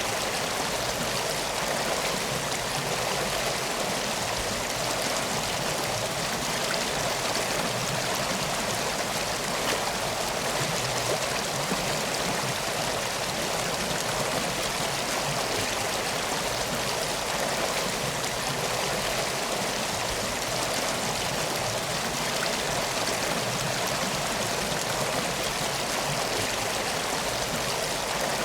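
River water flowing steadily, an even rushing and trickling that does not change.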